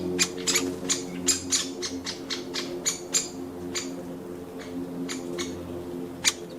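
Birds at a garden nut feeder: a quick, irregular run of short, sharp, high notes, crowded together in the first few seconds and thinning out later, with one strong note near the end. Underneath runs a low, steady drone of held musical notes.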